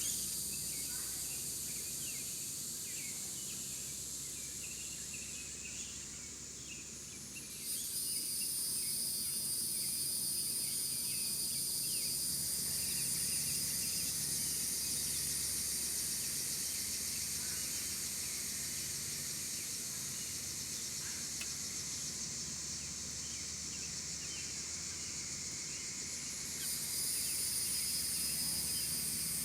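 Outdoor insect chorus, a steady high-pitched buzzing and trilling of crickets or similar insects. It fades for a couple of seconds about six seconds in and again near the end, then returns.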